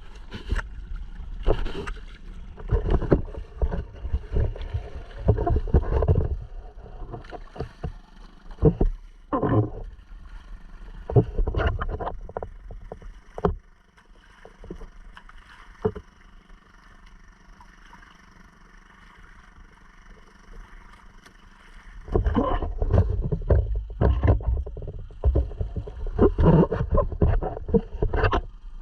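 Water sloshing and splashing around a sea kayak's hull in irregular surges, dropping quieter for several seconds past the middle before picking up again.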